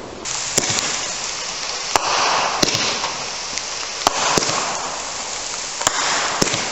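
Fireworks going off: a string of sharp pops and reports about every second or two over a continuous hiss that swells and fades.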